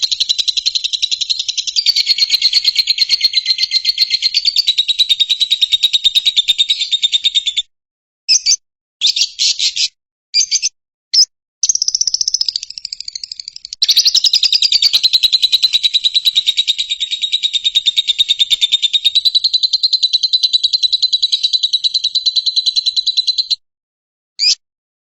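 Lovebird singing a long, very fast high-pitched chattering trill (the 'ngekek' song). One unbroken run of about seven seconds breaks into a few short bursts, then a second long run of about ten seconds follows, and short bursts come near the end.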